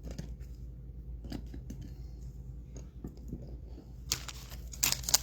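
Faint clicks and slides of trading cards being handled, then about four seconds in a loud crinkling as a card-pack wrapper is torn open.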